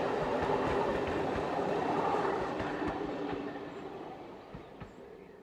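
A train's passenger coaches rolling past, wheels knocking over the rail joints. The sound fades steadily away over the last few seconds as the tail of the train moves off.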